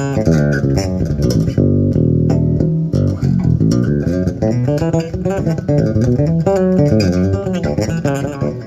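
Electric bass guitar played solo through an amp on its rear pickup alone: a steady run of plucked notes and double-stops, some held and some quick.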